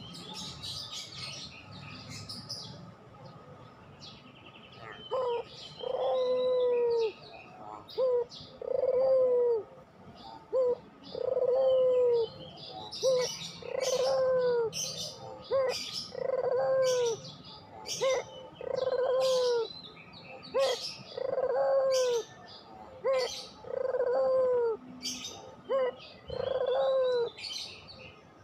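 Puter pelung dove cooing over and over, each call a short note followed by a longer drawn-out note that falls in pitch at the end, repeating about every two seconds from about five seconds in. Small birds chirp high over it throughout.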